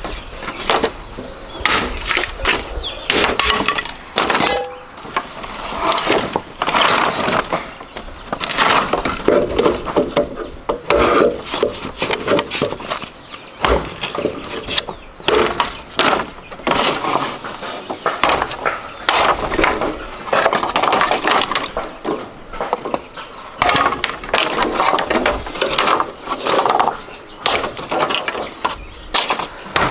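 Repeated sharp cracks and knocks, like wood being broken or struck, coming irregularly several times a second, with a faint steady high-pitched hum underneath.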